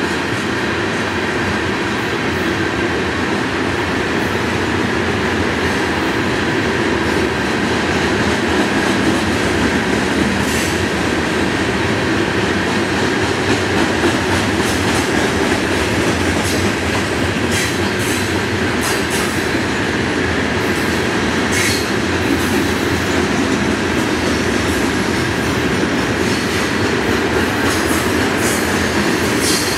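Loaded rock train's freight cars rolling past at speed: a steady rumble of steel wheels on rail, with a thin steady wheel squeal and occasional sharp clicks.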